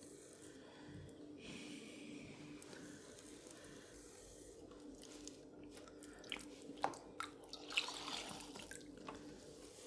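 Faint wet squelching and dripping of water and wet porcelain clay under the hands on a pottery wheel, with a cluster of small splashy clicks from about six to eight and a half seconds in, over a steady low hum.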